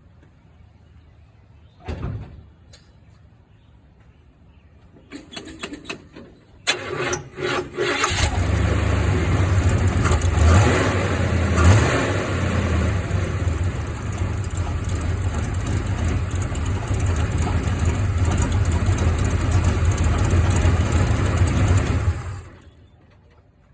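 Oldsmobile engine in a mid-1960s Chevy/GMC pickup being started: a thump about two seconds in, a few seconds of stuttering cranking, then it catches, is blipped twice, and runs steadily until it is switched off near the end.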